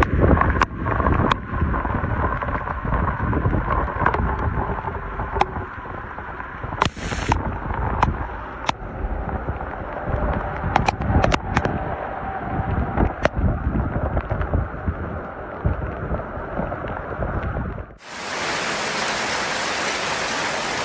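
Heavy rain with wind buffeting the microphone, with scattered sharp ticks from drops landing close by. About 18 seconds in the sound cuts abruptly to a steady, even hiss.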